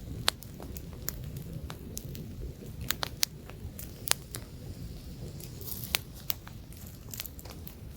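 Wood campfire burning, with sharp irregular crackles and pops over a low rumble of flame and light wind.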